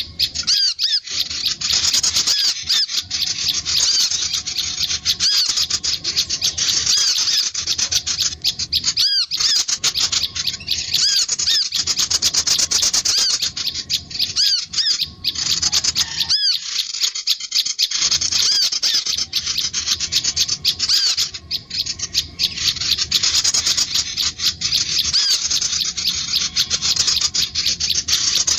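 Sunbird and prinia calls from a lure recording: rapid, high-pitched chirps and trills that run almost without pause, with a few short breaks.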